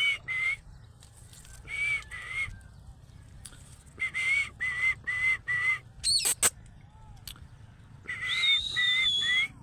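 Parrot whistling a run of short, clear notes in groups of two to five, with a quick up-and-down whistle about six seconds in and a longer, higher note near the end.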